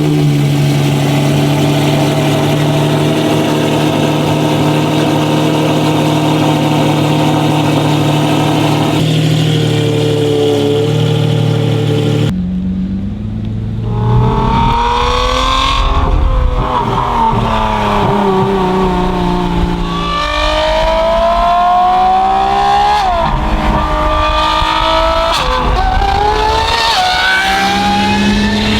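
Lamborghini Revuelto's V12 through a full race exhaust, holding a steady note for about twelve seconds. It then changes abruptly to hard acceleration: the pitch rises again and again, with a sudden drop at each upshift.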